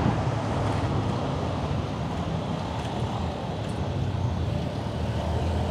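Steady wind rumble on the microphone mixed with road traffic noise, as heard from a moving bicycle.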